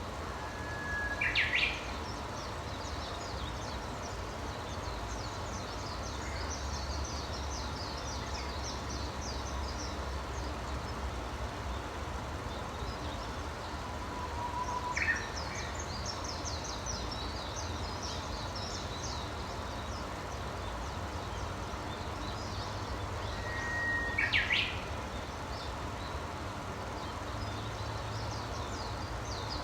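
Wild birds singing: one louder bird gives a held whistle that breaks into a quick rising phrase, three times (near the start, about halfway, and near the end), over continual high chirping and a low steady background rumble.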